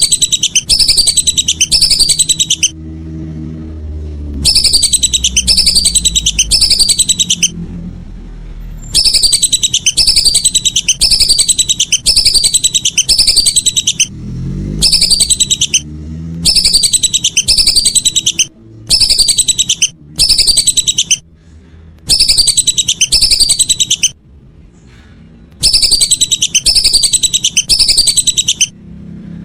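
Whistling duck (belibis) calls, a looped lure recording: high, falling whistles repeated in quick runs of several calls, with pauses of a second or two between runs. A low rumble sits underneath and swells a couple of times.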